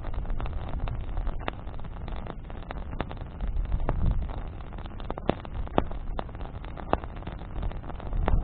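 Bonfire of branches burning: irregular sharp crackles and pops, a dozen or so, over a steady low rumble of the flames and wind.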